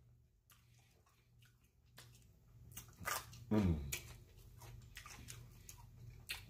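A man chewing a mouthful of small hamburger close to the microphone, with wet lip smacks and clicks starting about two and a half seconds in. About halfway through there is a short low hum that falls in pitch.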